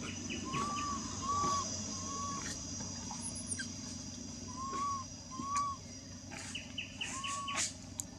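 Birds calling in woodland: a string of short, arched whistled notes repeated every second or so, and twice a quick run of four or five chattering notes, over a steady high insect drone.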